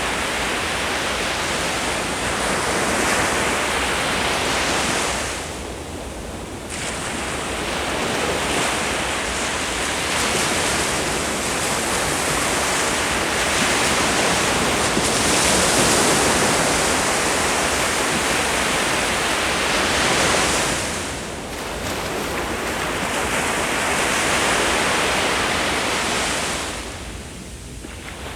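Ocean waves breaking on the shore, a continuous surf wash that swells and subsides, easing briefly about six seconds in, again past twenty seconds, and near the end.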